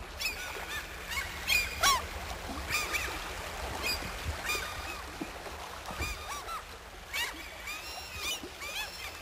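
Several birds singing together: many short, quick notes that rise and fall, overlapping throughout, over faint background hiss.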